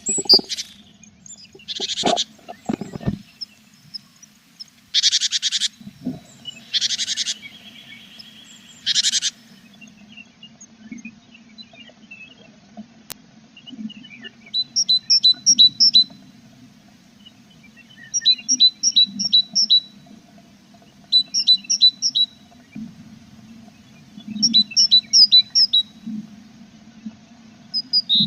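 Tits calling inside a nest box: several short buzzy bursts in the first nine seconds, then groups of quick high chirps every few seconds, over a low steady hum.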